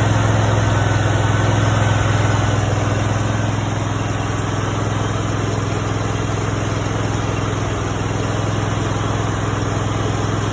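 Brand-new Honda GX630 20 hp V-twin engine running steadily on its first run, its level easing slightly a few seconds in.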